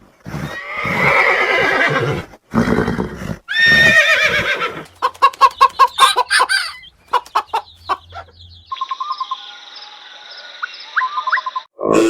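Horse whinnying: several loud, wavering neighs, breaking into quicker shorter calls, over about the first seven seconds. A quieter, different steady sound follows near the end.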